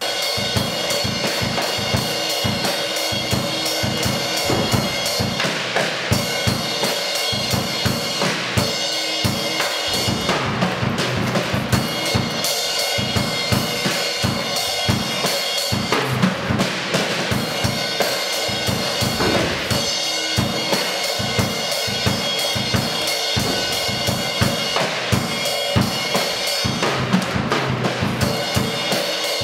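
Drum-kit solo that cuts in abruptly, dense unbroken drumming on drums and cymbals.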